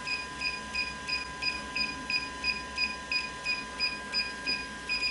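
A DJI Phantom remote controller beeping in linking mode while it waits for the aircraft's link button: short, even, high beeps, about three a second.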